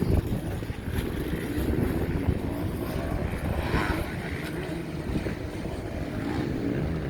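Motocross bikes racing on the track, their engines revving: a steady drone of overlapping engine notes that rise and fall.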